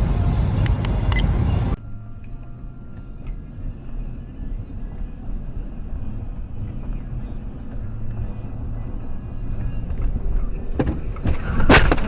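Car interior road and engine noise from dashcam footage, changing abruptly about two seconds in to a quieter, steady rumble. Near the end comes a cluster of loud bangs: a collision.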